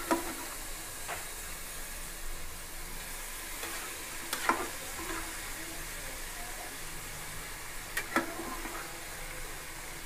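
Food sizzling as it fries in an aluminium pressure cooker while pre-cooked country chicken pieces are added and stirred in. A few sharp metal clinks against the pot stand out, the loudest about halfway through.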